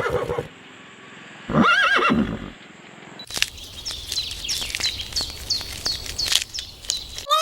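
Farm animals calling: a wavering bleat trails off at the start, a short call rises and falls about a second and a half in, then from about three seconds in comes a run of quick clicks with short high chirps.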